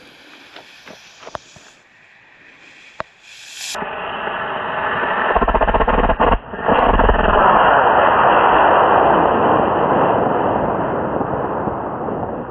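A model rocket's fuse sputters and hisses with a few sharp crackles. Then, a little under four seconds in, the E35 rocket motor lights with a loud rushing roar that lasts several seconds and slowly fades as the rocket climbs away.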